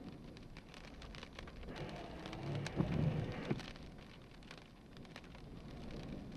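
Rain in a thunderstorm: many small sharp drop impacts over a steady low rumble, with a couple of louder hits a little under halfway through.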